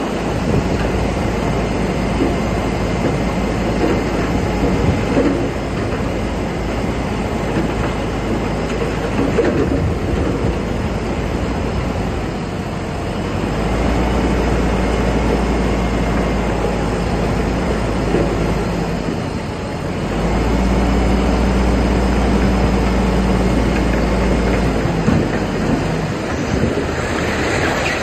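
Bulldozer at work: its diesel engine runs under a constant clank and rattle of the crawler tracks. Twice the engine drone rises and holds louder, from about 13 s and again from about 20 s, as the machine takes load.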